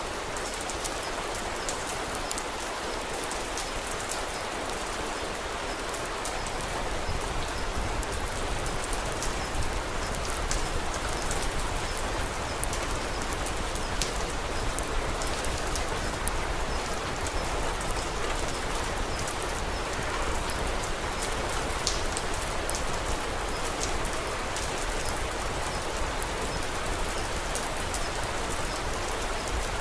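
Steady rain falling on a surface, an even hiss dotted with many small sharp ticks and pops. It grows slightly louder a few seconds in.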